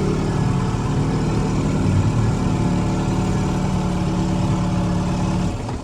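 Sailboat's small outboard motor running steadily as the boat comes in to the dock, dropping off about five and a half seconds in.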